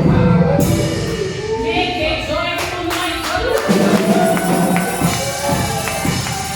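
Gospel praise music in a church service: voices singing, with a tambourine shaken and struck throughout.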